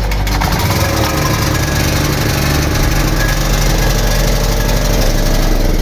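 Small petrol generator engine converted to run on LPG, running steadily with a rapid firing beat.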